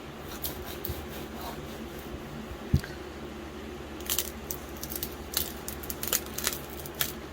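Crinkling, clicking handling sounds of a metallic vinyl decal being pressed and smoothed onto a tumbler, with a single soft knock just before three seconds in and a busier run of small crackles in the second half.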